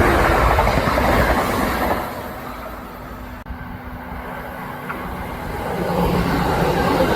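Kintetsu electric train running past: the rail noise dies away after about two seconds, leaving a quieter lull with a steady hum and a brief dropout in the middle, then builds again near the end as train noise rises.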